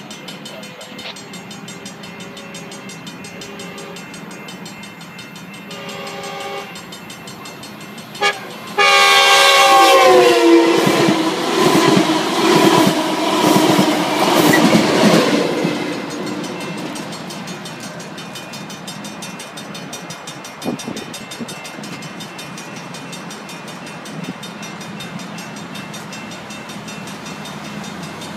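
Metrolink commuter train passing close by, cab car leading: its horn sounds briefly, then a long loud blast that drops in pitch as the cab car goes by, for the grade crossing. The rumble and clatter of the bilevel coaches and the EMD F59PH diesel locomotive pushing at the rear follow, then fade away.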